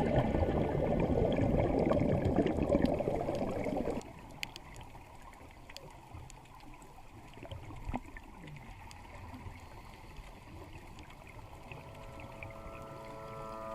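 Water noise on a diving camera's sound track: a loud rushing, bubbling hiss that cuts off abruptly about four seconds in, leaving a much quieter water hiss with scattered faint clicks. Music fades in near the end.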